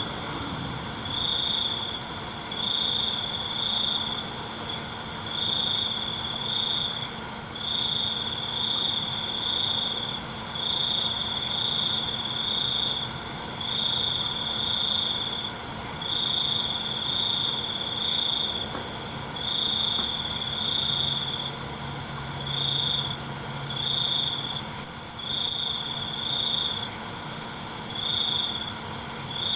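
Crickets chirping: one near, loud cricket trills in bursts of about a second with short pauses between them, over a steady, higher-pitched chorus of other insects. A few faint sharp ticks come in twice, about seven seconds in and near the end.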